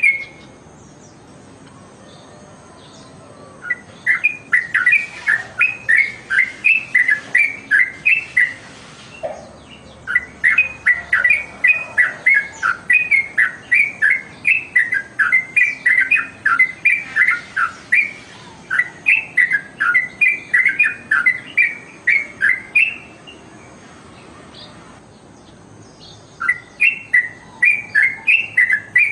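Yellow-vented bulbul (trucukan) singing: runs of rapid, jumping notes several seconds long, broken by short pauses.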